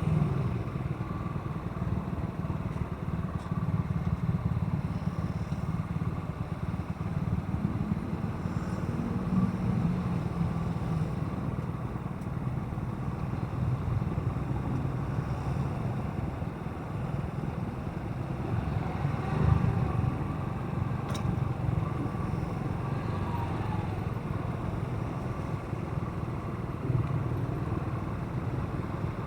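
Motorcycle running on the move, a steady low rumble of engine and road noise, with a brief louder swell about twenty seconds in.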